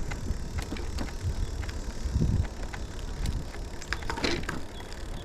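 E-bike riding along a path: low wind rumble on the microphone and tyre noise, with scattered clicks and rattles and a brief louder rustle about four seconds in.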